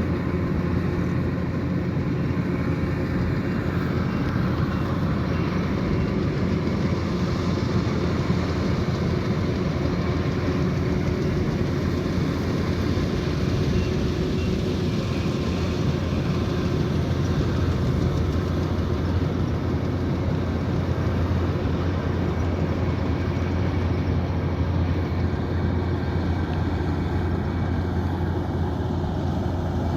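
Kubota DC108X combine harvester running steadily while harvesting rice: a continuous low engine drone with the hum of its working machinery, holding an even pitch and level throughout.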